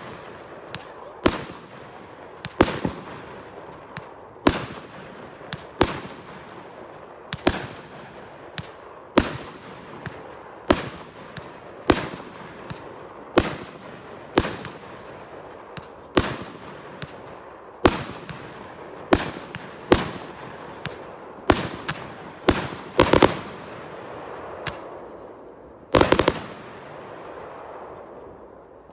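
Fireworks going off in a steady series of sharp bangs, roughly one every second and a half, each trailing off in echo. Several come in a quick cluster about three quarters of the way through, and a double bang follows near the end.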